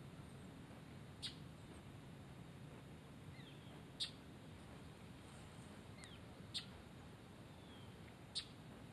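Quiet outdoor background broken by four short, sharp chip calls from a small bird, a couple of seconds apart, with fainter short falling calls between them.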